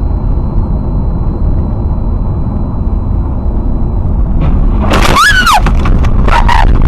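Steady low rumble of a vehicle in motion, like road noise on a dashcam. About five seconds in there is a brief high squeal that rises and then falls, followed by a few sharp knocks near the end.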